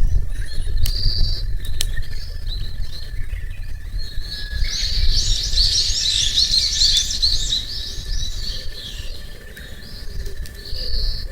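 Small songbirds chirping and singing, with a dense run of rapid chirps in the middle, over a steady low rumble. A faint steady high tone runs underneath, and there are two sharp clicks near the start.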